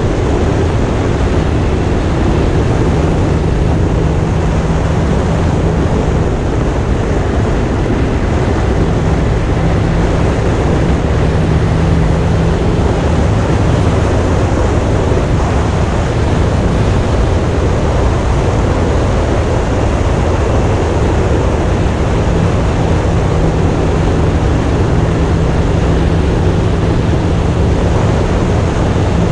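A 2025 Indian motorcycle riding at steady speed: the engine hums steadily beneath heavy, even wind and road noise.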